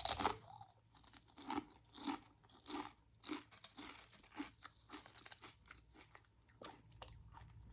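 A crisp bite into crunchy fried food, then close-miked chewing with crunches about every half second that grow softer near the end.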